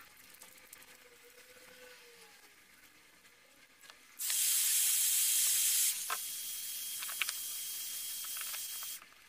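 Steady hiss of blowing air that starts abruptly about four seconds in. It is loudest for the first couple of seconds, then drops slightly, with a faint high whine and a few light clicks, and it cuts off shortly before the end.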